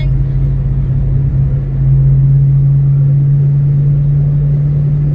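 2006 Ford Mustang GT's 4.6-litre V8 cruising, heard from inside the cabin: a steady low engine drone over road rumble. It swells about two seconds in, holds, and eases just before the end.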